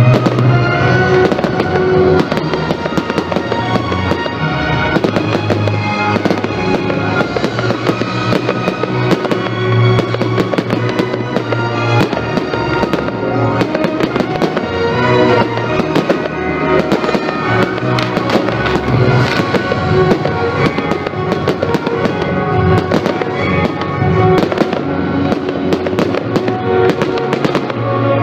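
Fireworks display: shells and comets launching and bursting, with many sharp bangs and crackles throughout, over loud recorded music accompanying the show.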